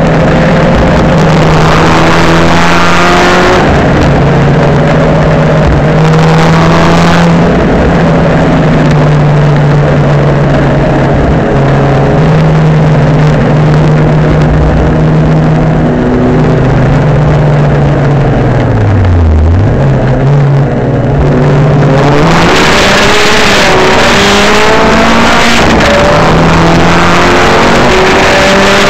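The tuned Saab 9-3 Sport race car's turbocharged B207 four-cylinder engine is being driven hard on track, loud throughout, with engine pitch rising and falling between gears. About two-thirds of the way in the revs drop steeply as the car slows. The engine then pulls hard again, climbing in steps through several upshifts.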